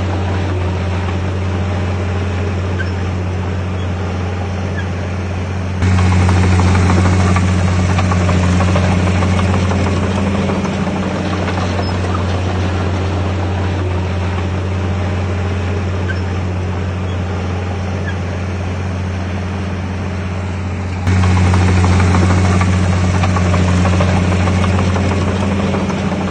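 Bulldozer's diesel engine running steadily with a low, even drone. It gets suddenly louder twice, about six seconds in and again about twenty-one seconds in, then eases back down each time.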